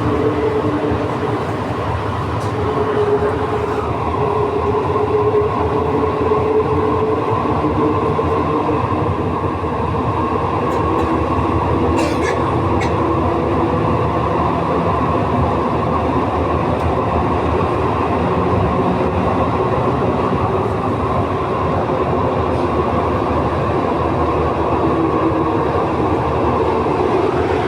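Inside a rubber-tyred NS-93 metro car running between stations: steady running rumble with a wavering hum. A brief high squeal about twelve seconds in.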